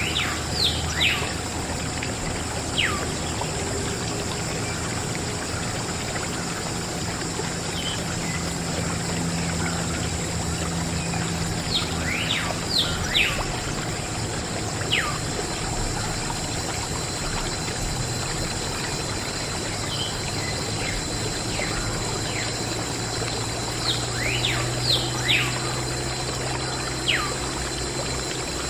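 Water pouring and trickling steadily from a miniature DIY water pump's outlet. A few quick falling bird chirps come now and then.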